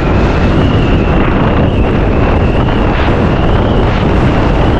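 Wind buffeting a GoPro microphone on a moving motorcycle, over the bike's engine and road noise, with a thin steady high whine on top.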